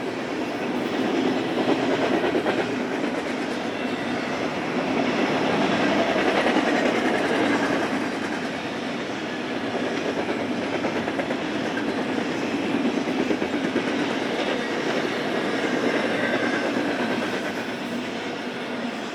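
Cars of a BNSF intermodal freight train rolling past, a steady rumble of wheels on rail that swells and eases as the cars go by.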